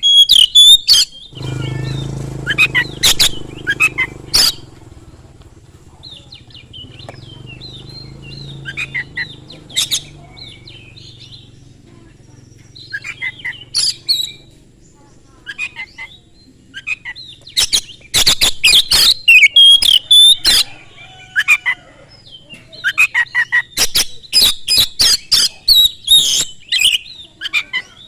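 Oriental magpie-robin (kacer) singing loudly in fast, sharp bursts of whistles and chattering phrases, separated by short pauses. A low hum sits under the first half.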